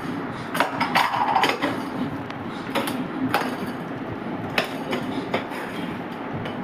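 A beagle playing with his food bowl, knocking it about: a series of sharp, irregular knocks and clinks, several of them bunched together about a second in.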